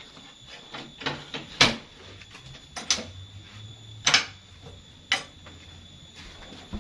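Irregular sharp knocks and clacks, about five, the loudest a little over a second and a half in, over a faint steady high whine.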